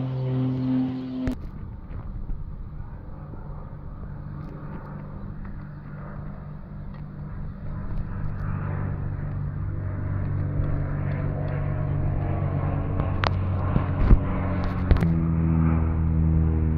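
Propeller airplane engine drone. It breaks off abruptly about a second in, then builds back steadily and grows louder toward the end, with a few sharp clicks shortly before the end.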